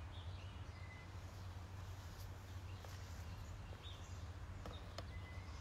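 Backyard ambience: a few short, faint bird chirps over a low, steady rumble, with a couple of light clicks near the end.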